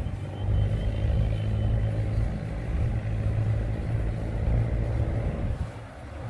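Cargo boat's diesel engine running steadily, a loud low drone that holds its level, as the boat is turned.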